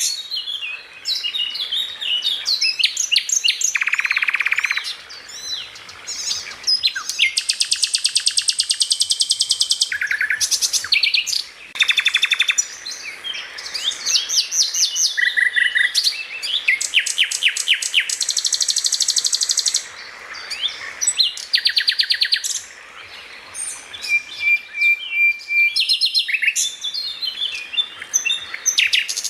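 Songbird song in a near-continuous run of rapid chirps, fast repeated trills and short whistled phrases, high-pitched, with a few brief pauses.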